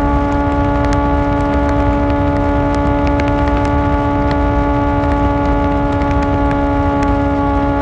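Kawasaki ZX-4R inline-four engine with an Akrapovic exhaust running at a steady engine speed, its pitch holding even, with a low rumble and scattered light ticks.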